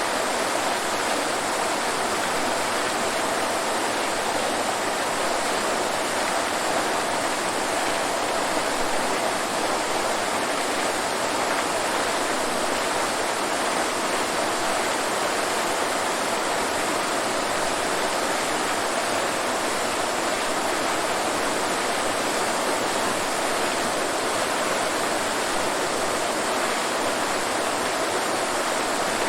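Waterfall: water falling and rushing in a steady, even roar with no breaks or changes.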